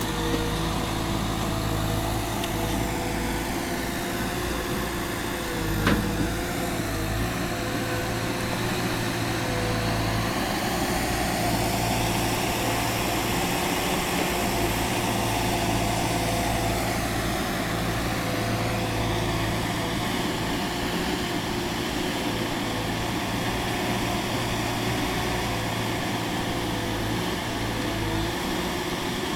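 ASV RC-60 tracked skid steer's Perkins diesel engine running steadily, with a higher whine that shifts in pitch a few times and a single knock about six seconds in.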